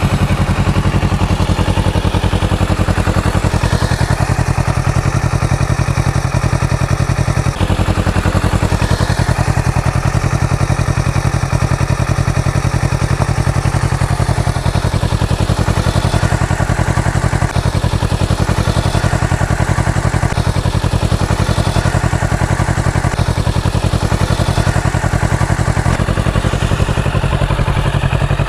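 Kawasaki Ninja 650's parallel-twin engine running steadily through its exhaust, an even rapid pulse at a constant low speed with no revving.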